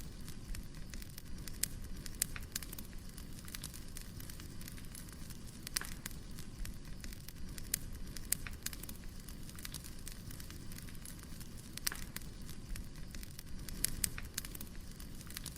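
Firewood burning: a steady low rumble of flames with irregular sharp crackles and pops, a few of them louder than the rest.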